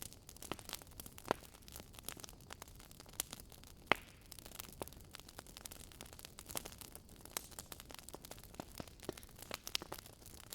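Wood fire crackling in a fireplace: irregular pops and snaps over a soft steady hiss, with one sharper pop about four seconds in.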